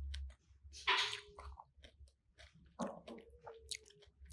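Close-miked chewing and wet mouth sounds of a person eating pineapple: a run of small clicks and squelches, with a louder burst about a second in and another near three seconds.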